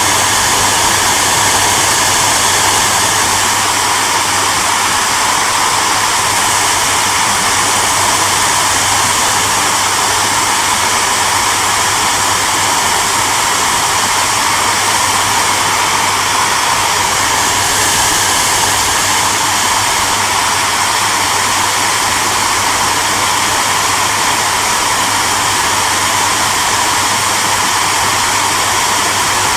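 Hairdryer running steadily: an even rushing of air from the fan, with a low motor hum underneath.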